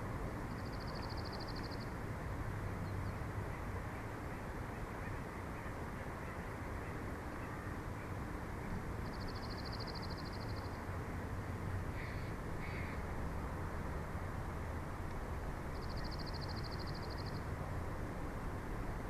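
Steady wind rushing across the nest-cam microphone, with a small bird's high buzzy trill heard three times, each lasting about a second and a half, and two short faint calls in between.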